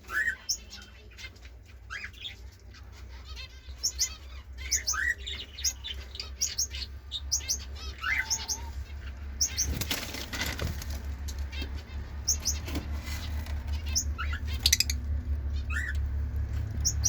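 Lovebird chirping in short, high, scattered calls, with wing flutters and rustling. A steady low hum runs underneath, louder in the second half.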